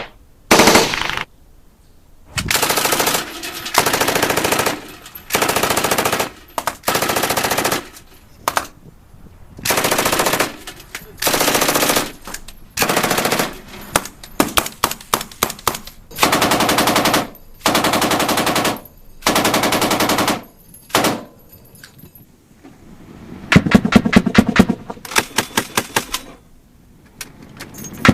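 Automatic gunfire: a machine gun firing about a dozen short bursts, each lasting under a second, with brief pauses between. Near the end a quicker string of separately spaced shots follows.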